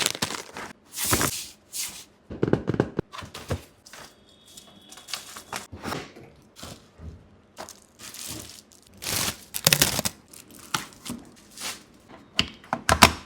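Packaging being opened by hand: cardboard and plastic wrapping tearing, crinkling and rustling in irregular bursts, with a few light knocks.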